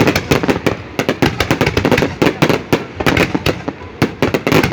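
Fireworks going off: a rapid, irregular run of bangs and crackles, several a second, easing briefly twice.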